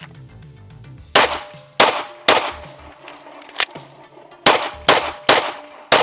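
A string of about eight gunshots fired at steel targets, each strike followed by the plate ringing, in uneven quick succession starting about a second in.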